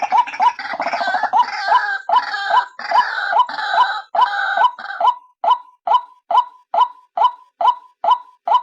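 White-breasted waterhen (ruak-ruak) call played as a lure, given as a female's call: a steady run of short repeated notes, about two to three a second. During the first half a harsh, gurgling chatter overlaps them, then drops out about five seconds in, leaving the repeated notes alone.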